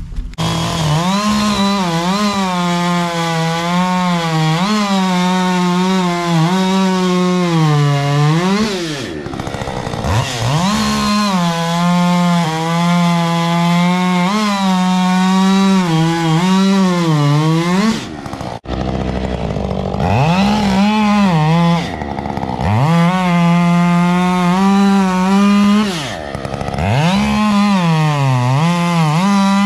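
Two-stroke chainsaw with an opened-up muffler, running at high revs while cutting. It drops off throttle briefly three times, about a third of the way in, just past halfway and near the end, and revs back up each time.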